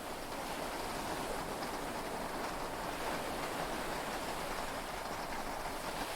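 Heavy rain heard from inside a yacht's cabin: a steady, even hiss with no thunder or other sudden sounds.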